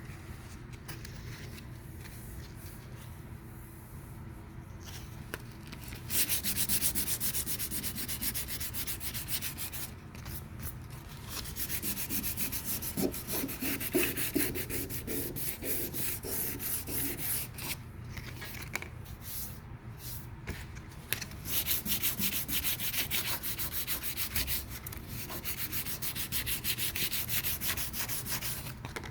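Sandpaper rubbing back and forth over high-build epoxy primer on a car body panel, knocking down the orange peel. It starts about six seconds in and goes in spells of quick strokes with short pauses between them.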